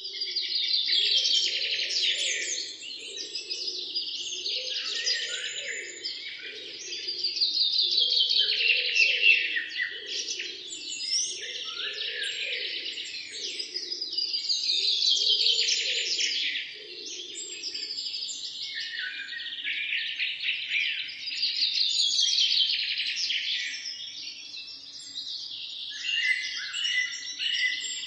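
Songbirds singing in a dense chorus, with rapid trilling phrases that swell and fade every several seconds. Underneath, a lower sound pulses about once a second and stops about two-thirds of the way through.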